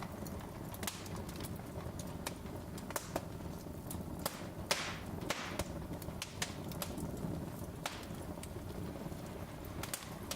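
Wood fire crackling in a fireplace: irregular sharp pops and snaps over a low steady rumble, with a brief hiss about halfway through.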